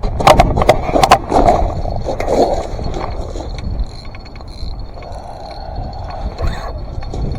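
Wind buffeting the microphone as a steady low rumble, with a few knocks and scrapes of handling in the first second or so.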